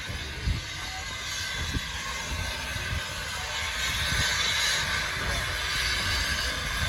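Train on a heritage railway line, with a hiss that grows louder from about halfway through, and irregular low bumps underneath.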